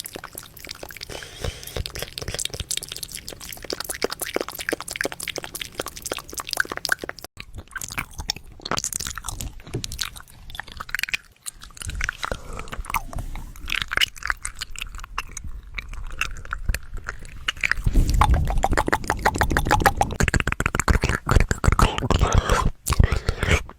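Fast, wet ASMR mouth sounds close to the microphone: rapid clicking, smacking and tongue pops, growing louder and fuller near the end.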